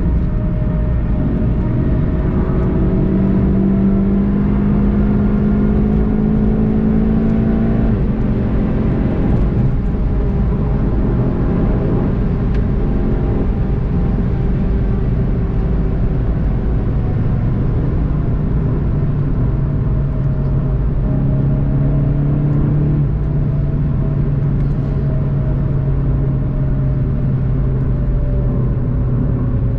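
Onboard sound of a Volkswagen Golf 7 GTI TCR's turbocharged four-cylinder engine accelerating, its note rising until a gear change about eight seconds in. In the second half the note drops and falls slowly as the car slows, over steady road and wind noise.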